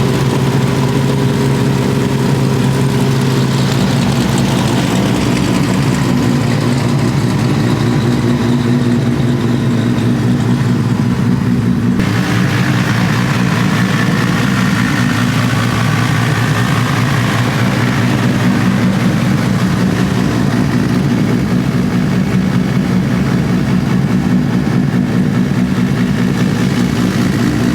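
A car engine running steadily, loud throughout. About twelve seconds in, the sound changes abruptly to another steady engine sound.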